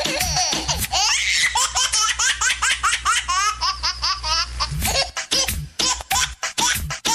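A man's high, exaggerated laughing and squealing, in quick pulses and swoops that rise and fall in pitch, then a run of sharp strikes from about five seconds in.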